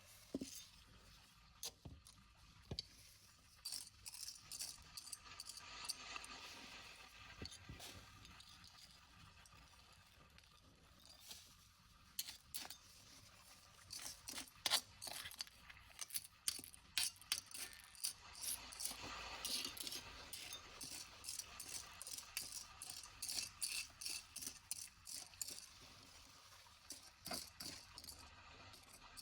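Small hard objects clinking and rattling as they are handled, a run of sharp clicks that grows busier and louder about halfway through.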